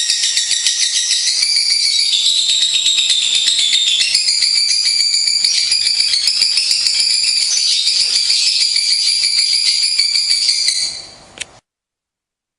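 Lovebirds chattering in a rapid, continuous high-pitched trill that fades and stops about eleven and a half seconds in.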